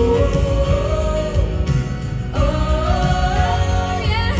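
Live southern gospel singing with band accompaniment: voices hold two long notes in harmony over a steady beat.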